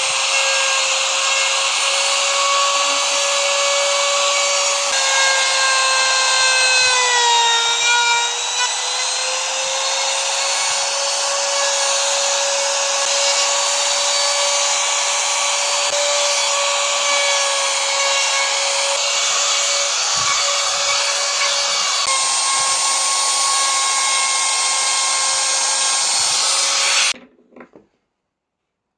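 Electric power tool running steadily against wood with a high motor whine. Its pitch dips briefly about seven seconds in, as if under load, and it stops abruptly near the end.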